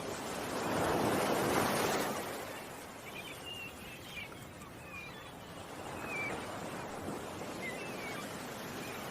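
Ocean waves washing on the shore, one swell building about a second in and easing off, a softer one around six seconds. Birds chirp briefly now and then.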